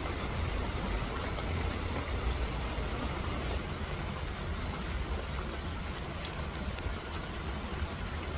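Steady rain falling, an even hiss with a continuous low rumble underneath and a few faint drip ticks.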